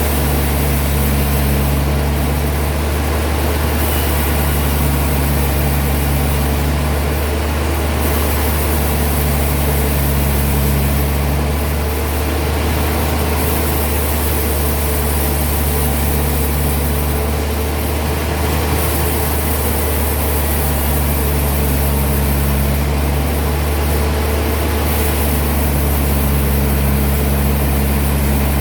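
Heavy sawmill machinery running steadily with a deep hum, its sound swelling and easing in a regular cycle about every four seconds.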